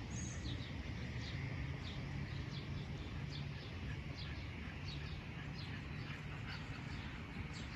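A bird chirping: short, high, falling chirps repeated about twice a second, over a steady low hum.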